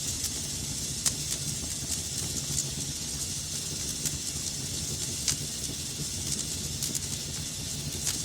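Wood fire burning in a fireplace: a steady hiss over a low rumble, with sharp crackles and pops about once a second.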